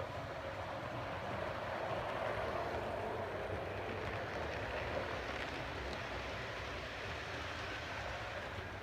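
Model train running along the track: a steady rumbling whir of the locomotive's motor and wheels on the rails that grows louder about two seconds in and eases off again.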